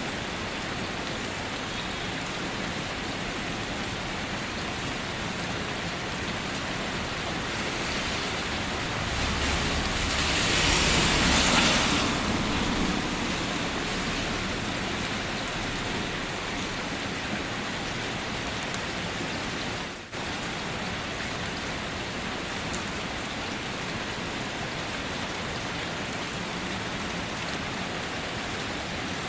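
Steady rain falling. Around ten seconds in, a louder swell lasting a few seconds adds a low rumble and a brighter hiss, then fades back into the rain; near twenty seconds the sound briefly drops out.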